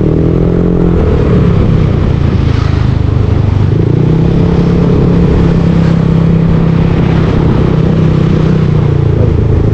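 Yamaha Aerox V2 scooter's single-cylinder engine running through a JVT V3 aftermarket exhaust while riding, at fairly steady revs with a small shift in pitch in the first second or so.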